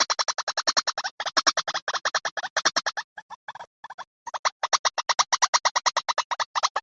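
White-breasted waterhen calls played as a bird lure: rapid repeated notes, about ten a second. The run breaks off about three seconds in and starts again a second later.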